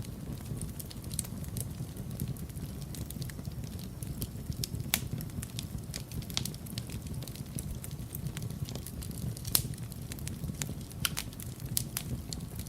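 Wood fire burning in a fireplace: a steady low rumble of flames with frequent crackles and pops, two sharper pops about 5 and 9.5 seconds in.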